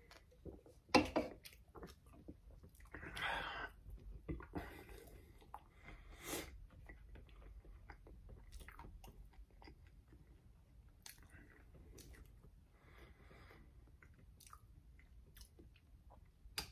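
A person chewing and biting food, with scattered small clicks and a sharper knock about a second in.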